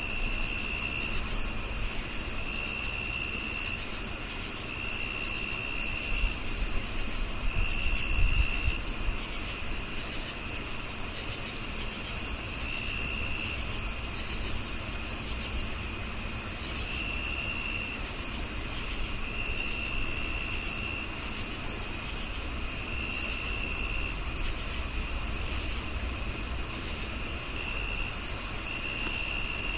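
A chorus of crickets: one gives a continuous high trill, another repeats short chirps about three times a second, and a lower one trills in roughly one-second bursts every couple of seconds. A brief low rumble comes about eight seconds in.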